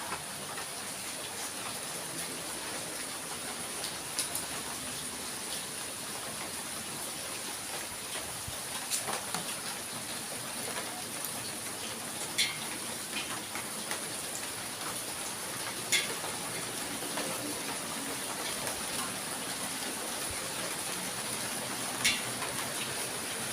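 Steady rain falling, with a handful of sharp taps from drops striking a hard surface.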